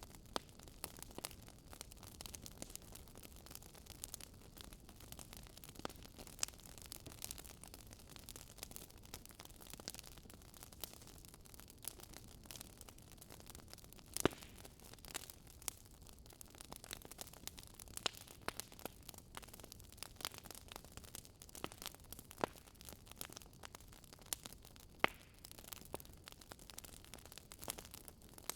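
Wood fire crackling: irregular sharp pops and snaps over a soft steady hiss, with a few louder pops, the loudest about halfway through.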